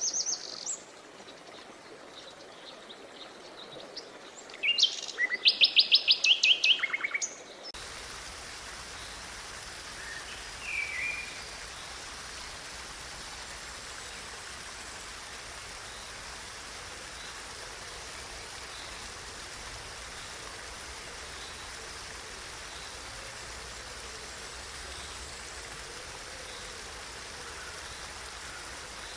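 Wild birds singing high, quick calls, loudest a rapid run of about a dozen repeated notes. About eight seconds in, the sound cuts abruptly to a steady rush of flowing water, with an occasional faint bird chirp over it.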